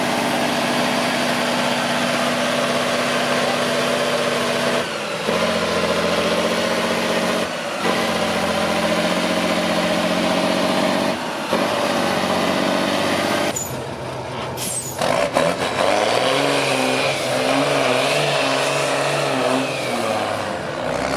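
Heavy off-road truck engine pulling hard, with brief dips and changes in pitch about five, seven, eleven and thirteen seconds in as the gears change. A short hiss comes about fourteen seconds in, then the engine speed rises and falls unsteadily as the truck works through the course.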